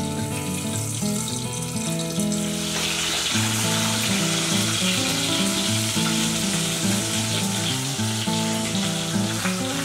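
Masala-coated fish pieces shallow-frying in oil, a steady sizzle that grows louder about two and a half seconds in, under background music of held notes.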